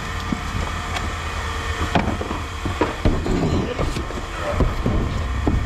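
A vehicle engine idling with a steady low rumble, with faint voices and a few short knocks over it.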